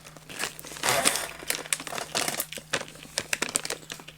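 A candy bag crinkling as it is handled, in a run of irregular crackles.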